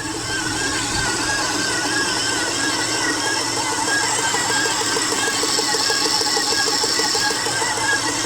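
Hyundai/Kia G6BA 2.7-litre V6 idling steadily with a dull, evenly repeating knock. The owner says the knock is there both cold and hot and fades when the revs rise; he noticed it after replacing the ignition leads.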